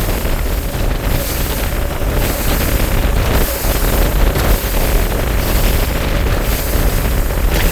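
Wind buffeting the microphone aboard a moving bass boat, with a faint steady tone from the boat's outboard motor beneath it.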